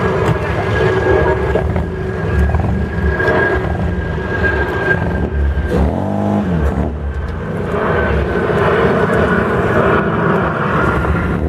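Bugatti Type 35's engine running at low speed while the car is manoeuvred into a parking space, with a brief rise and fall in pitch about six seconds in.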